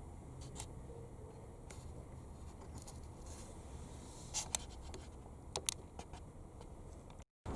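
A few faint clicks and light scrapes of small parts being handled, the loudest pair about four and a half seconds in and another near the end, over a low steady hum; the sound cuts off abruptly.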